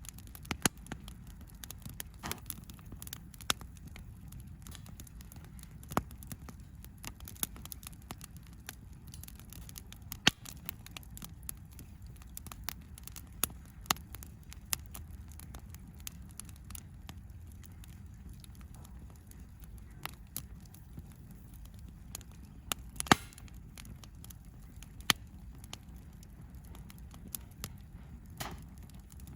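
Wood fire crackling, with irregular sharp pops scattered throughout over a low steady rumble. The loudest pop comes about three-quarters of the way through.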